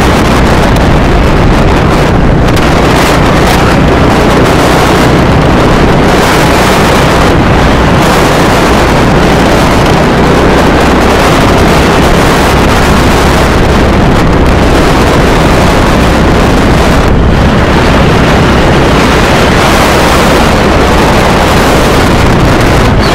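Loud wind noise on the microphone of a moving motorcycle, over the steady drone of its engine.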